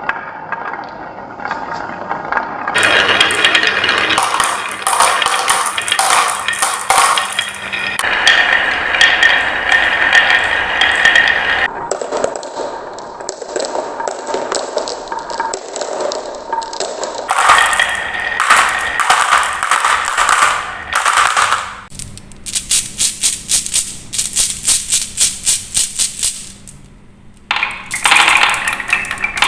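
Marbles rolling and clattering down wooden marble-run tracks, a dense stream of rapid clicks and rattles that changes character abruptly several times. In one stretch the clicks come as a fast, even series.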